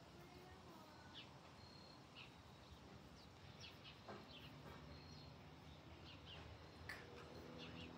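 Faint outdoor quiet with scattered short bird chirps, some falling in pitch, over a low steady hum.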